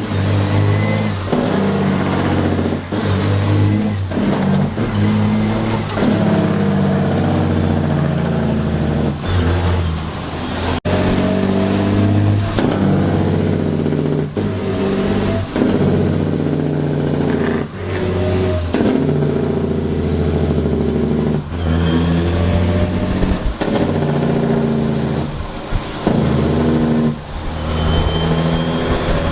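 Semi-truck diesel engines running and revving, their pitch rising and dropping again and again with short breaks between.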